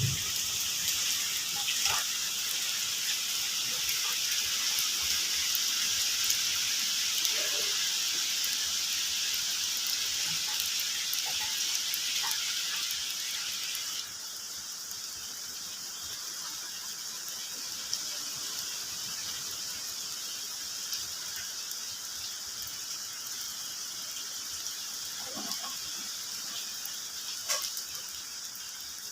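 Steady rain hiss, which drops suddenly to a softer level about halfway through, with a few faint bird calls scattered through it.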